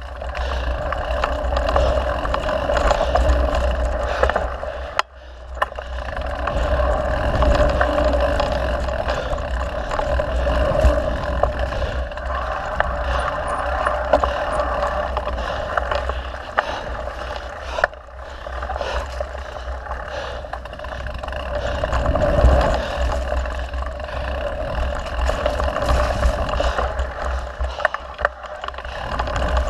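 Mountain bike riding on a dirt trail: wind rushes over the microphone and tyres roll, with scattered clicks and rattles from the bike. The noise swells and fades with speed, dipping briefly about five seconds in.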